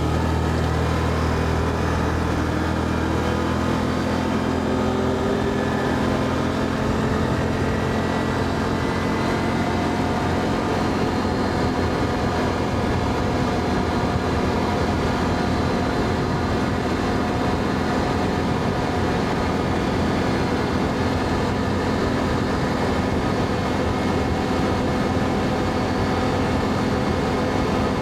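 ATV engine running on the move, its pitch climbing over the first several seconds as it picks up speed, then holding steady.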